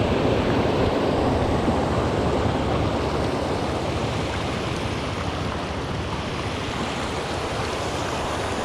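Water of a small waterfall and stream rushing steadily, an even hiss that eases off slightly over the last few seconds.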